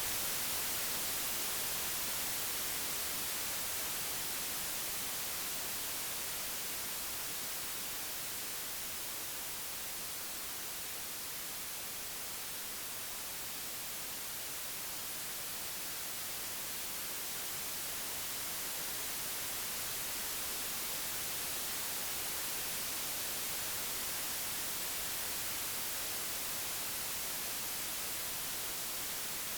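Computer-generated white noise: an even, steady hiss, its level sinking slightly toward the middle and rising again.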